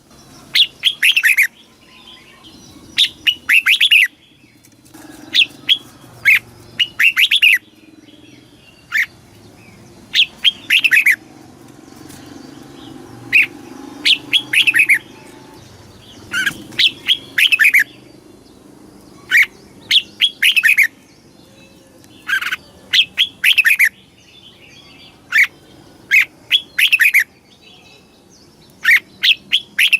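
Red-whiskered bulbul singing: short, clear phrases of quick falling whistled notes, repeated every second or two with brief pauses between them.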